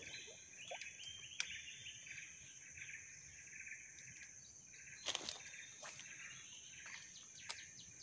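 Insects chirping: a steady high-pitched buzz with a broken trilling chorus beneath it, and a few faint clicks about a second in, around five seconds in and near the end.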